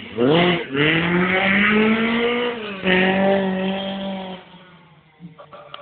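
Rally car engine accelerating hard: the revs climb, drop once at an upshift a little under three seconds in, climb again, then fade as the car drives away.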